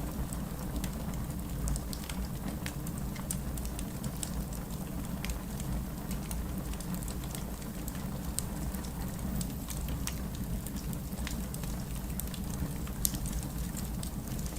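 Fireplace crackling, with short sharp pops scattered irregularly throughout and the loudest about 13 seconds in, over a steady low rumble of distant rain.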